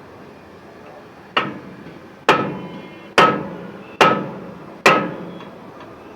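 Hammer blows on the metal stud or nut of a truck wheel hub: five hard strikes about a second apart, each ringing briefly.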